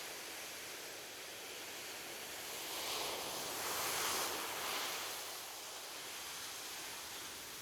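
Ocean waves on a shore: a steady hiss of surf, with one wave swelling and washing in about three seconds in, then easing back.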